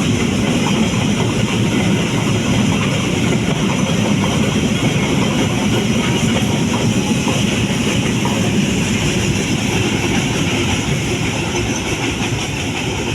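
Freight train of flatcars passing through without stopping, wheels clattering over the rail joints in a steady rumble that eases slightly near the end.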